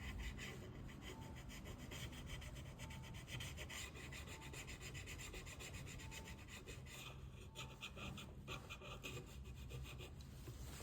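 A small tool scraping and rubbing in rapid short strokes against an iPhone XR, in bursts that thicken in the middle and again near the end.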